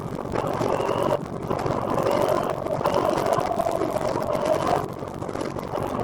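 Steady vehicle running noise with a wavering engine-like hum that fades about five seconds in.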